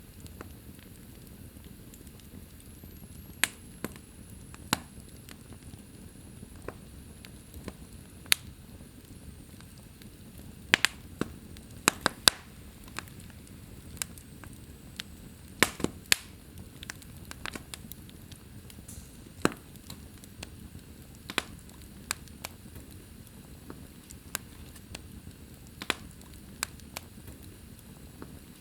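Wood fire crackling in a fireplace: irregular sharp pops and snaps, some coming in quick clusters, over a steady low hiss of burning.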